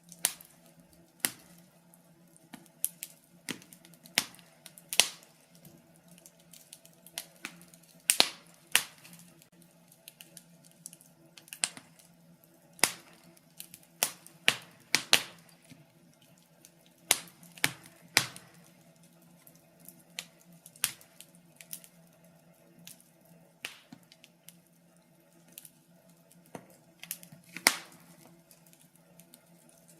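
Wood fire crackling in a fireplace: irregular sharp pops and snaps, about one or two a second and sometimes in quick clusters, over a faint steady low hum.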